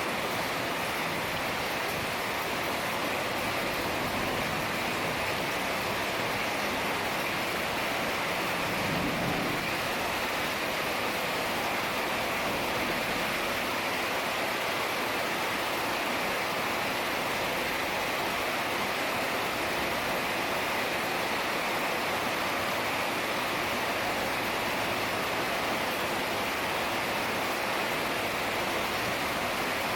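Heavy rain falling steadily, a dense even hiss with no letup, and a brief low rumble about nine seconds in.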